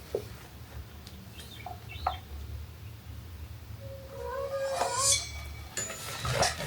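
Faint, short animal calls over a steady low hum.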